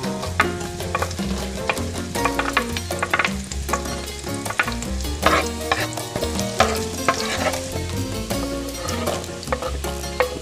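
Chopped garlic and onion sizzling as they sauté in annatto oil in a nonstick wok, with a wooden spoon stirring and tapping against the pan in frequent short clicks. Background music with a steady bass line plays underneath.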